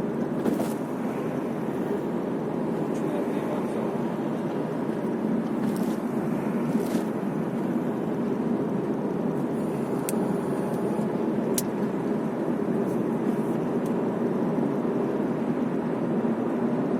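Steady road and engine noise heard inside a moving car's cabin: an even low rumble of tyres and engine while driving, with a few faint clicks.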